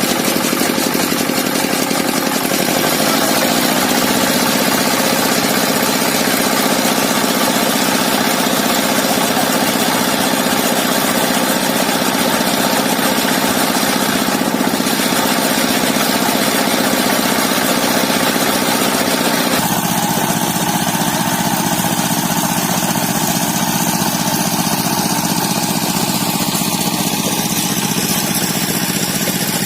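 Diesel engine driving a grass-cutting machine, running steadily. About twenty seconds in its sound changes abruptly, the higher hum dropping away while the low running note carries on.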